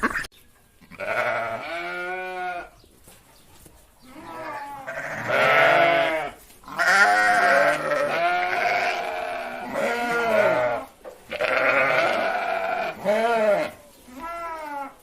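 Bleating livestock: several long, quavering calls one after another, with short pauses between them.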